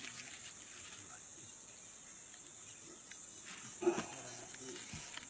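Insects keeping up a steady, high-pitched chorus, with one short, louder sound about four seconds in.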